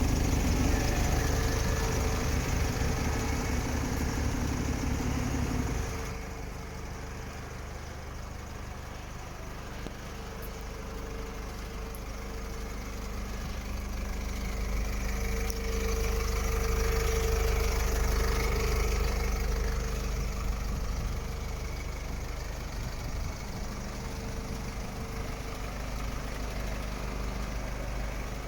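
Diesel engine of an Iveco Eurocargo 75E18 truck idling. It runs louder for about the first six seconds, then drops suddenly to a quieter, steady idle, and swells louder again for a few seconds in the middle.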